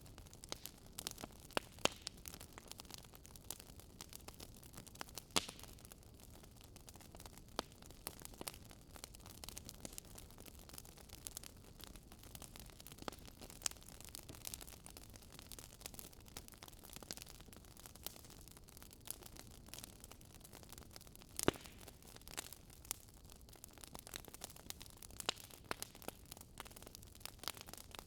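Wood fire crackling in a fireplace: irregular sharp pops and snaps over a low steady hiss, with a few louder pops.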